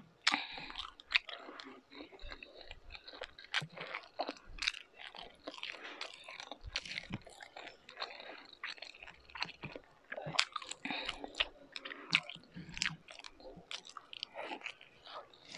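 Close-up chewing of beef tapa and rice eaten by hand: a dense, irregular run of small sharp mouth clicks and crunches.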